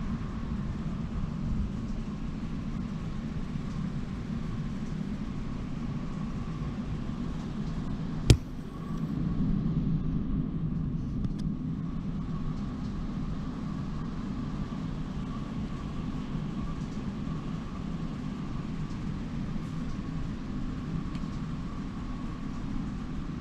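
Model trains running on a layout: a steady low rumble with a faint high hum, and one sharp click about eight seconds in.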